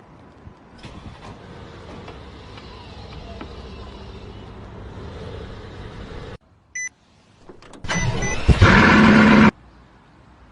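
A car running for about six seconds, then an abrupt break. About eight seconds in, a much louder burst of car engine noise lasts about a second and a half.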